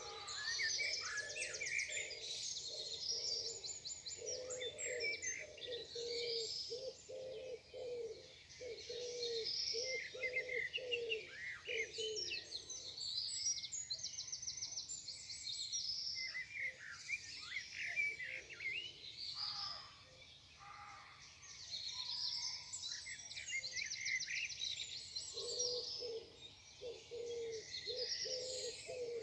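Morning chorus of several songbirds singing: overlapping chirps, whistles and rapid trills. Underneath, a low note repeats in a steady series for the first dozen seconds and again near the end.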